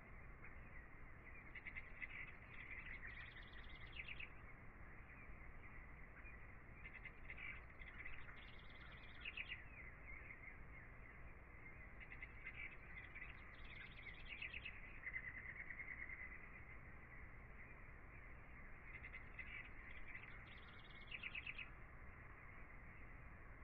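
Faint birdsong: four short bouts of chirping and twittering, with a brief warbling trill about fifteen seconds in.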